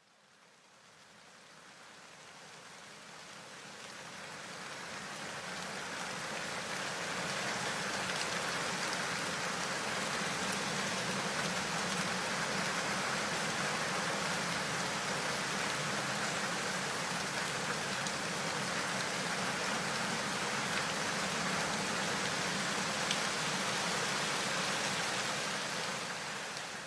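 Heavy rain falling steadily, a dense even hiss without pauses, fading in over the first several seconds and fading out near the end.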